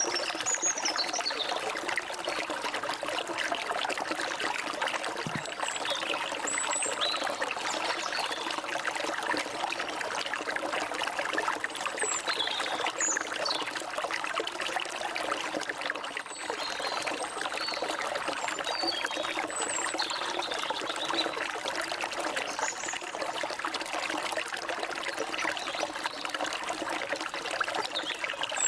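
Forest stream flowing and trickling steadily over rocks, with short high bird chirps and calls scattered over it.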